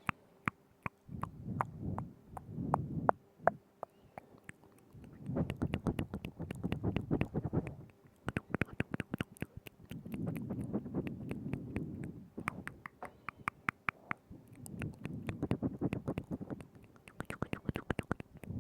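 Wet mouth sounds made right against a binaural microphone: rapid sharp clicks and smacks of lips and tongue over a soft wet low rustle, coming in clusters of a few seconds with short pauses between.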